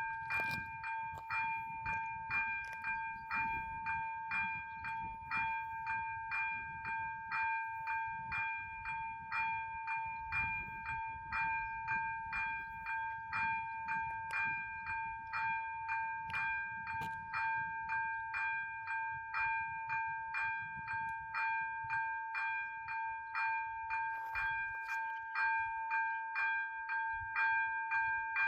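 Level crossing warning bell (ZV-02 type) ringing in an even rhythm, about one and a half strikes a second, each strike leaving a ringing tone, with a faint low rumble underneath.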